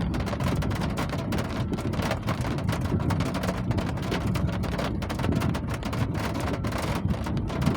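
Steady rain, with dense, irregular tapping of drops hitting a hard surface over a constant low rumble.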